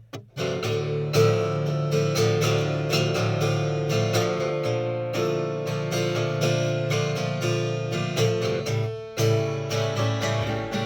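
Acoustic guitar strummed in a steady rhythm, an instrumental break between sung lines, with a brief pause just after the start and another about nine seconds in.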